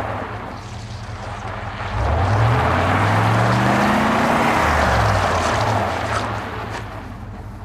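Car stuck and spinning its wheels: the engine revs up about two seconds in, its pitch rising and holding for a few seconds over the hiss of the spinning tyres, then it eases back off.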